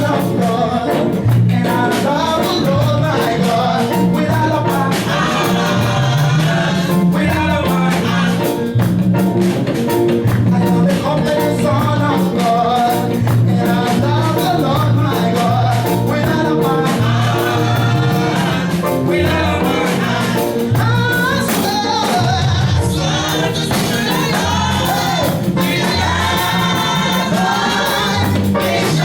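Gospel worship music played live: voices singing together over a band with bass and drums keeping a steady beat.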